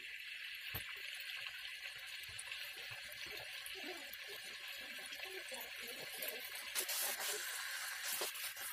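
Chicken pieces sizzling as they brown in oil in a nonstick wok, a steady hiss, with a few spatula scrapes and knocks against the pan near the end.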